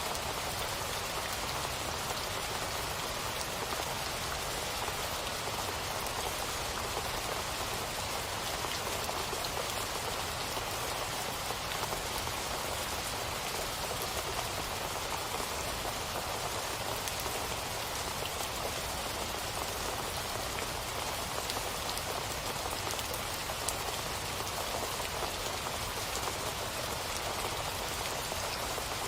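Steady rain falling on a surface: a constant even hiss with fine scattered drop ticks.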